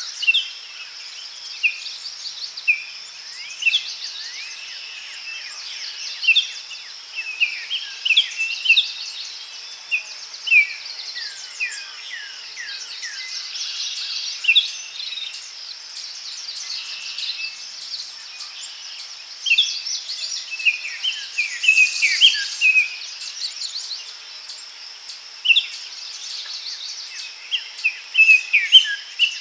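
Daytime forest ambience: several small birds calling and singing with short chirps and falling whistles, over a steady high insect drone.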